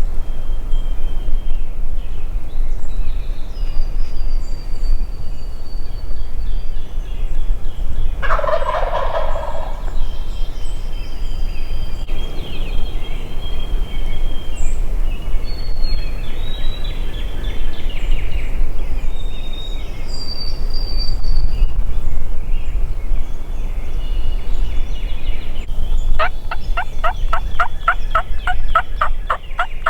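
Wild turkey gobblers gobbling from the roost trees: one loud gobble about eight seconds in, a fainter call later, and a rapid run of evenly spaced notes near the end. Small songbirds chirp faintly throughout.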